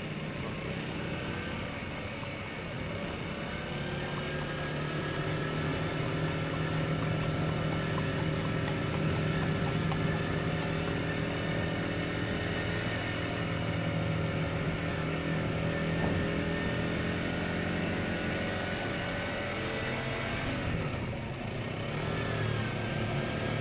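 KTM Duke 125's single-cylinder four-stroke engine running under way through an Akrapovic exhaust. Its note climbs over the first few seconds and then holds steady. It dips briefly near the end, then rises again.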